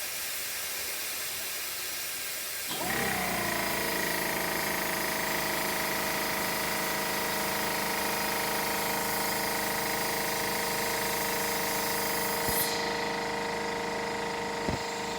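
Hitachi EC1443H high-pressure air compressor: compressed air hisses out, then about three seconds in the compressor motor starts and runs with a steady hum. Near the end there is a click, and the high hiss drops off.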